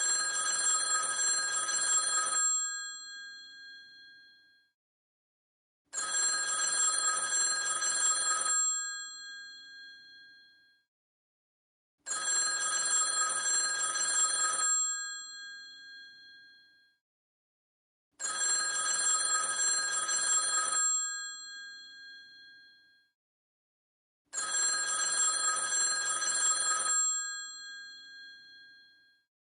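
An old telephone's mechanical bell ringing in five rings of about two and a half seconds each, starting about six seconds apart. The bells ring on and fade briefly after each ring.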